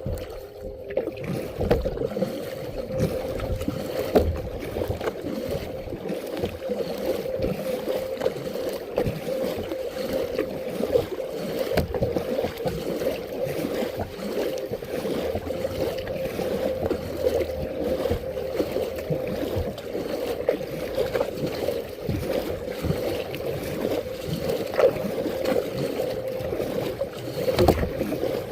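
Kayak being paddled on a river: water sloshing against the hull and the paddle, with frequent small knocks, over a steady hum.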